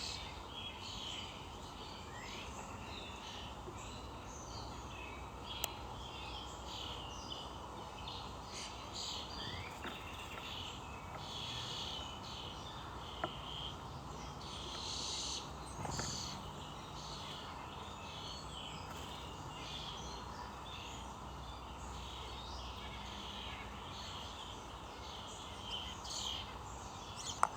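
Several small birds chirping and calling over a steady outdoor hiss, with a few brief sharp clicks.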